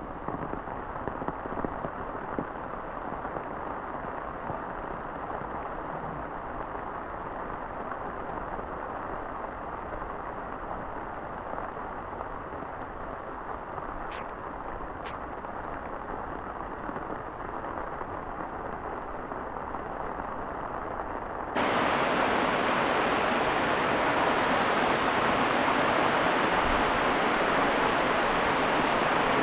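Heavy rain falling in a steady hiss, dull and muffled at first, then about two-thirds of the way through abruptly louder and brighter.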